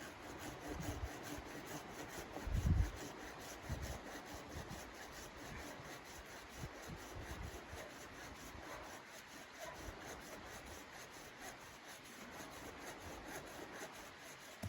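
Continuous rubbing and scraping, like hand work on wood, with a few low thumps in the first few seconds.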